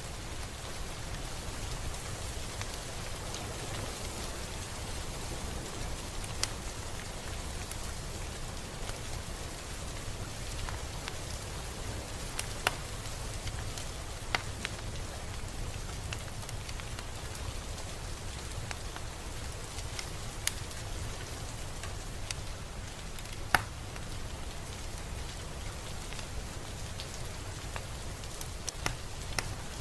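Steady rain falling, with a low rumble underneath and a few louder single drops ticking sharply now and then, the sharpest about four fifths of the way through.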